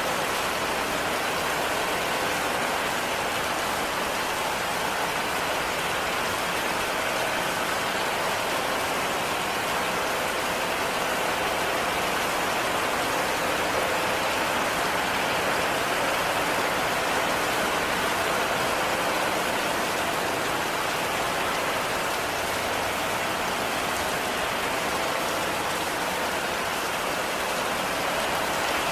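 Heavy rain falling steadily on a cabin roof, an even hiss of rain without letup.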